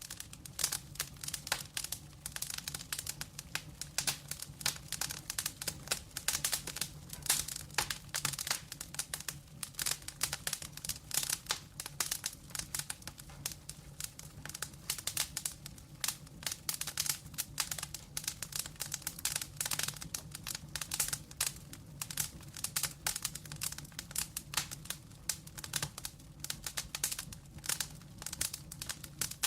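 Burning logs crackling, with dense, irregular pops throughout over a low steady hum.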